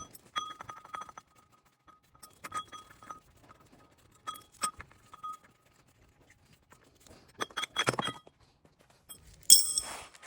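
Socket ratchet clicking in several short bursts as the water pump pulley bolts are undone, with light metal clinks. A sharp, ringing metal clink near the end is the loudest sound.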